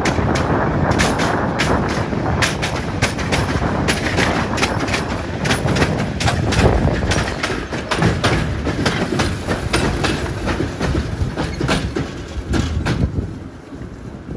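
Hythe Pier Railway train (wooden carriages hauled by a 1917 Brush third-rail electric locomotive) passing close by, a steady rumble with repeated clicks of the wheels over the rail joints. The sound fades sharply in the last second or so as the train moves away down the pier.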